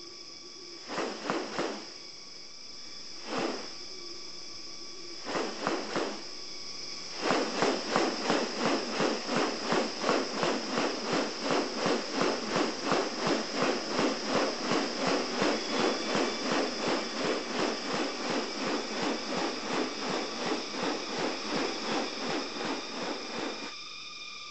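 Harsh rasping calls of a bird of paradise, a few separate ones and then from about seven seconds a rapid even series of about two a second that stops near the end. Behind them runs a steady high-pitched rainforest insect drone.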